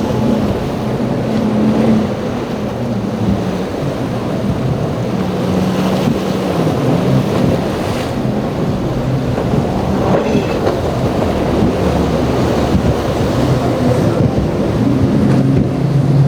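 Outboard boat engines running through rough inlet water, their pitch rising and falling with the throttle, over the wash of waves and wind on the microphone.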